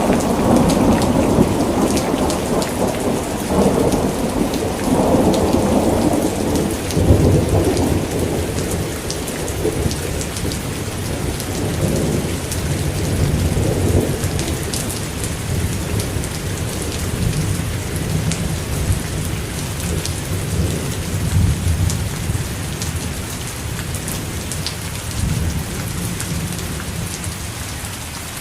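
Steady rain falling with scattered drop ticks, under a long low roll of thunder that rumbles through the first half and slowly fades away.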